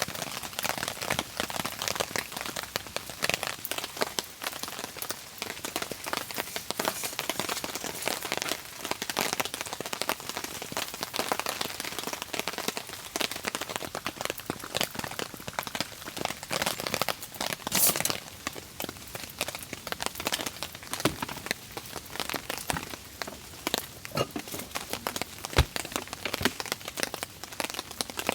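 Rain falling in a dense, steady patter of drops, with sharper cracks scattered through it, the loudest about 18 seconds in.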